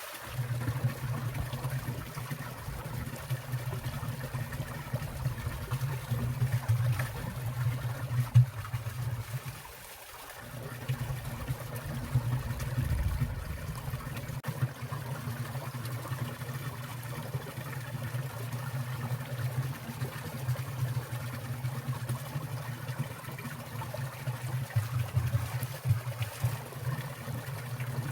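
Water of a winter mountain stream trickling and splashing steadily over ice, with a brief dip about ten seconds in.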